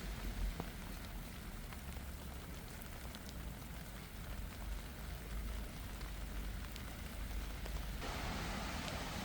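Steady rain falling, with scattered single drops ticking sharply. About eight seconds in a louder hiss comes in, like a car's tyres on the wet road.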